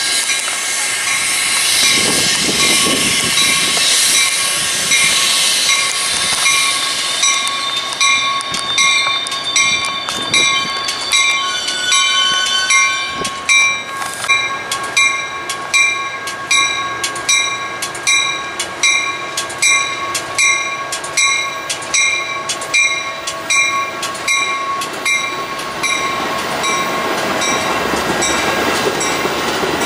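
Metra commuter train running along the rails, with a bell ringing in an even beat a little more than once a second from about eight seconds in until near the end.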